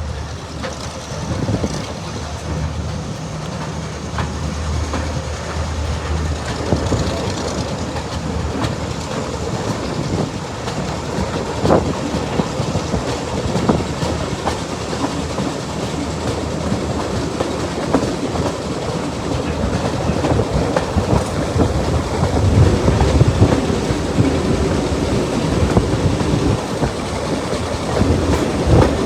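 Class 35 Hymek diesel-hydraulic locomotive D7017 hauling a train under power, its engine running steadily beneath the clickety-clack of carriage wheels over rail joints. The sound grows louder about three-quarters of the way through.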